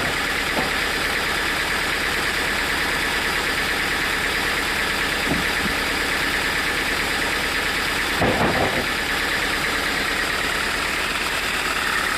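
Sawmill machinery running steadily, with a few short knocks, the clearest cluster about eight seconds in.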